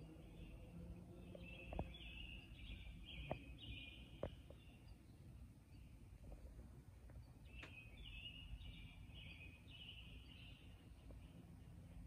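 A songbird singing faintly in two phrases of quick repeated notes, about five seconds apart, over quiet outdoor ambience. A few soft clicks are heard among the first phrase.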